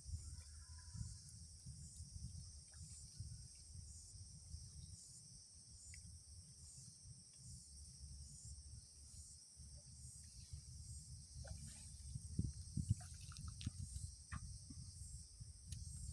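Steady high-pitched chorus of insects shrilling throughout, over a low rumble, with a few faint ticks about two-thirds of the way in.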